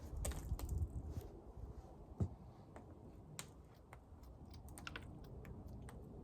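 Irregular light clicks and taps from a wooden hive frame being handled and turned over.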